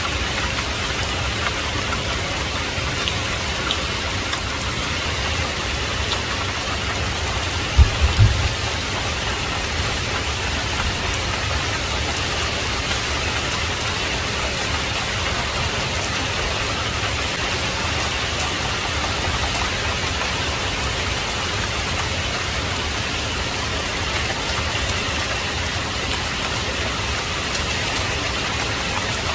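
Heavy rain falling steadily, an even hiss with no breaks. About eight seconds in comes a brief, deep thump, the loudest moment.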